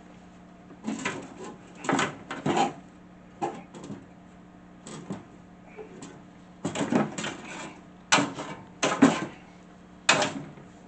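Irregular knocks and clatter of hand tools and metal parts being handled during the table saw's disassembly, in clusters a second or two apart, over a steady low hum.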